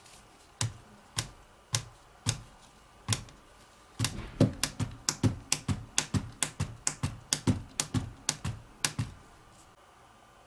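A series of sharp clicks or taps: a few spaced about half a second apart, then a quick run of about four to five a second that stops near the end.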